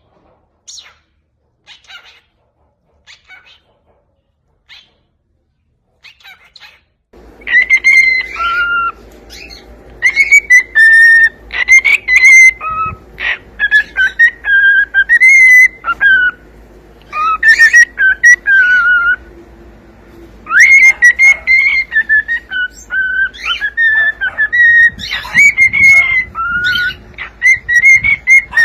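Cockatiel whistling and chirping: a few faint short chirps at first, then from about seven seconds in, loud whistled phrases of notes that glide up and down, broken by short pauses.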